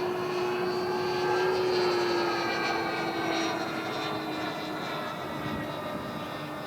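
Electric-powered RC P-40 Warhawk model airplane in flight: a steady whine from its motor and propeller. The pitch eases slightly lower and the sound grows a little fainter over the second half.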